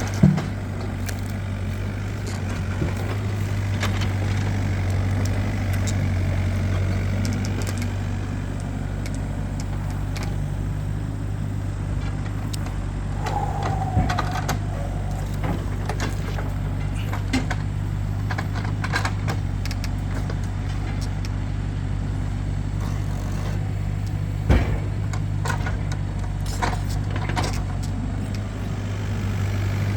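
A vehicle engine running steadily at idle, with a few sharp knocks and clatters over it, the loudest at the very start and about 24 seconds in.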